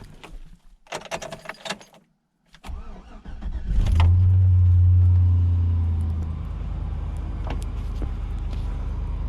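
A few clicks and knocks, then a vehicle engine starts, runs fast for about two seconds and settles to a steady idle.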